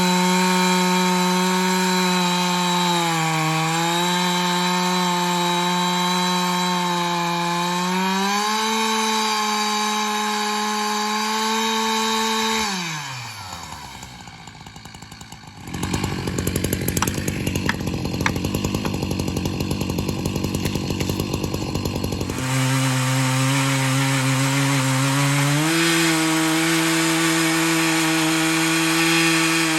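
Husqvarna 365 X-Torq two-stroke chainsaw on an Alaskan mill with a ripping chain, running at high revs through oak. About 13 seconds in the engine note falls away and the sound drops for a couple of seconds, then comes back as a rougher noise with no clear engine note. Near 22 seconds a lower engine note returns and steps up in pitch around 26 seconds.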